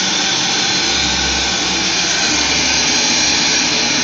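Vacuum cleaner running steadily, a loud even rush of air with a faint constant high whine.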